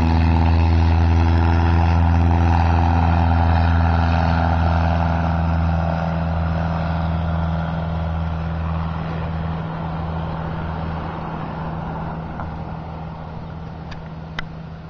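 Cessna 150's four-cylinder piston engine at full power after a touch-and-go, a steady drone that slowly fades as the plane climbs away. A brief sharp click comes near the end.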